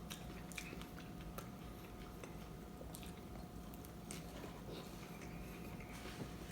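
A person chewing and biting a taco, with faint, scattered wet mouth clicks.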